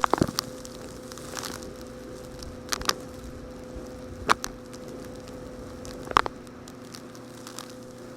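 Small rocks crunching and clicking as they are handled: several short, sharp crunches spread a second or so apart over a steady low hum.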